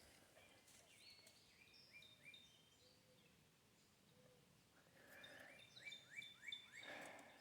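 Faint bird song: runs of short, repeated slurred notes, one a second or so in and another in the last couple of seconds.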